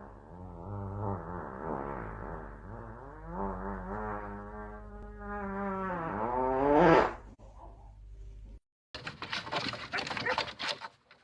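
A dog howling in one long, wavering cry that climbs and grows loudest near the end before it stops. After a short gap come scratchy rustling and clicking noises.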